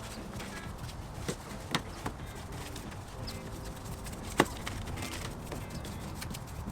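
Detailing brush scrubbing degreaser over engine-bay parts, with scattered sharp knocks and taps, the loudest about four and a half seconds in.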